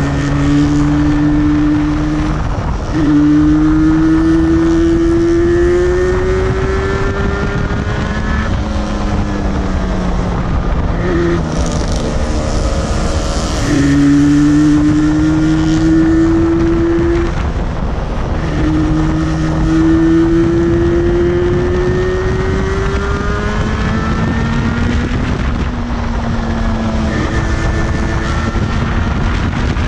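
Yamaha two-stroke parallel-twin motorcycle engine under way, its pitch climbing in long sweeps as it accelerates and dropping back at gear changes and on easing off, several times. Heavy wind buffeting on the microphone rumbles underneath throughout.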